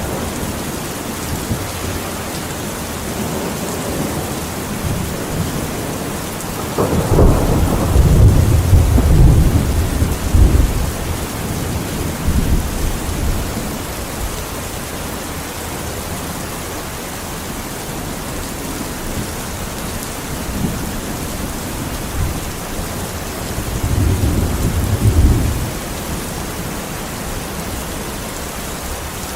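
Steady rain falling, with thunder rumbling twice: a long, loud roll starting about seven seconds in and lasting several seconds, and a shorter rumble near the end.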